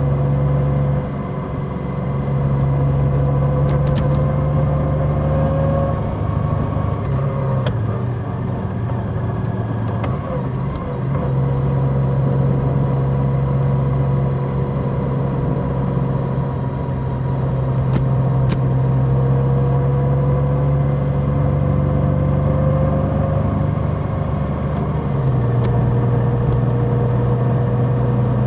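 Large motorcycle engine running steadily under way. Its pitch shifts slightly a few times as speed changes and drops a step near the end.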